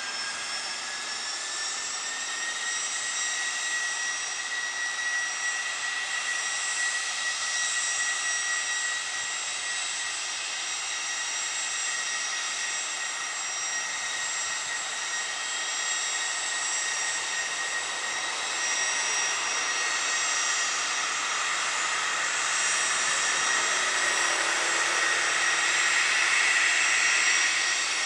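Cessna Citation CJ2+ twin turbofan jet on landing approach: a steady high engine whine over a rushing roar, its main tone rising slightly in pitch in the first couple of seconds. The sound grows gradually louder as the jet comes nearer.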